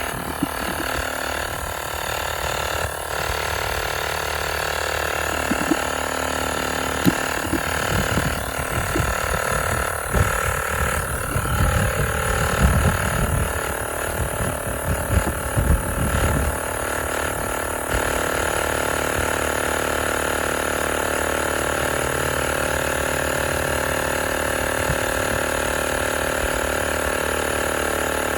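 Tower Top portable tire inflator's compressor running steadily, pumping air into a truck tire. Irregular low bumps and rumble come and go through the middle.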